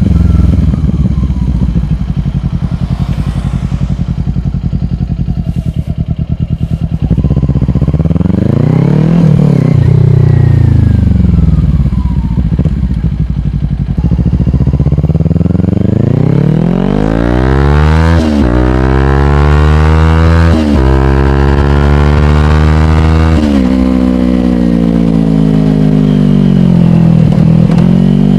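Kawasaki Ninja 400's parallel-twin engine through a slip-on exhaust, running low and steady, then briefly revving up and back down. From about halfway it accelerates, its pitch climbing through two upshifts, then falls away as the throttle closes near the end.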